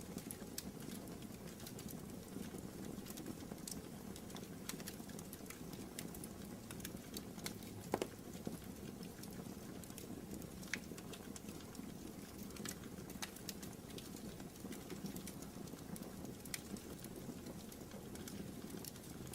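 Wood fire crackling in a fireplace: a steady low rush of burning with scattered sharp pops, one louder pop about eight seconds in.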